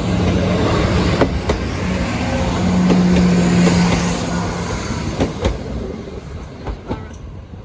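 Diesel train passing over a level crossing: a steady low engine note and wheel noise, with scattered sharp wheel clicks on the rails. It fades away in the last couple of seconds.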